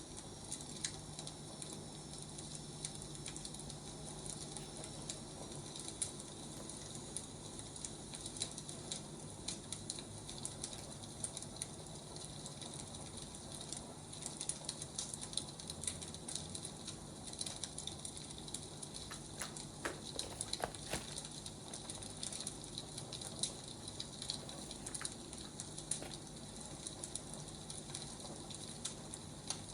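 Firewood burning, crackling steadily with many small irregular pops over a soft hiss, and a few louder snaps about two-thirds of the way through. A low steady hum runs underneath.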